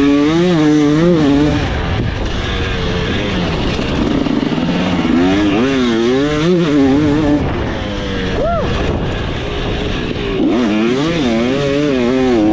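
KTM 300SX single-cylinder two-stroke dirt bike engine, revving up and down over and over as the bike is ridden, its pitch rising and falling about once a second, with one quick sharp blip a little past halfway.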